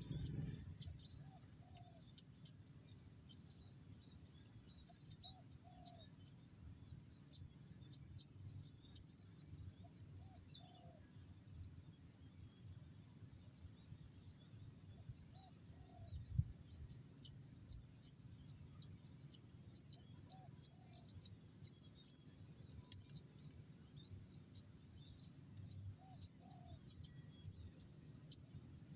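Female zitting cisticola giving short, high, sharp call notes in irregular runs, calling to a male. Faint lower paired notes from another bird come every few seconds.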